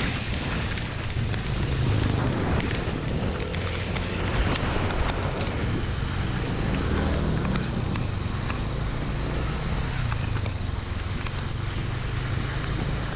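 Yamaha NMAX 155 scooter's single-cylinder engine running steadily while riding, with heavy wind noise on the microphone.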